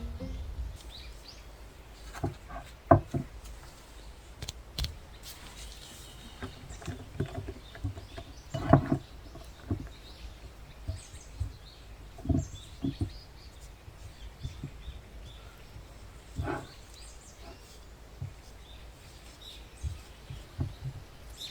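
Scattered light taps and knocks of handling at a work surface, a handful of them sharper than the rest, over faint room noise.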